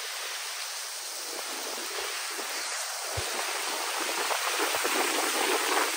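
Heavy thunderstorm rain pouring down as a steady rushing hiss, growing slightly louder toward the end.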